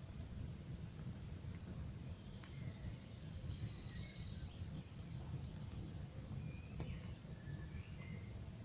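Campfire burning under birdsong: a steady low rumble with a few sharp crackles, while birds give short high chirps about once a second and one dense trill about three seconds in.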